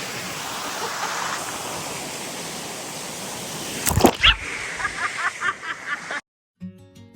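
Waterfall rushing steadily. About four seconds in comes a loud sharp knock, then a quick run of short high squeaks before the sound cuts off suddenly. Acoustic guitar music starts near the end.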